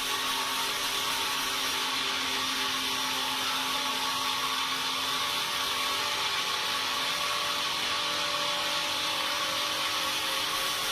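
Sawmill saw running steadily through timber, a continuous hiss with a few steady humming tones and no pauses.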